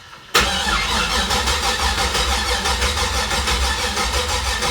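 Supercharged methanol-fuelled car engine firing for the first time. It catches suddenly just after the start and keeps running loudly with a steady, rhythmic pulse.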